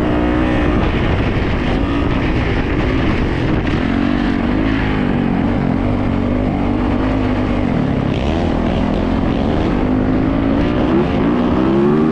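Yamaha YZ450 dirt bike engine running while riding. Its pitch rises and falls again and again as the throttle is worked, with a climb near the end.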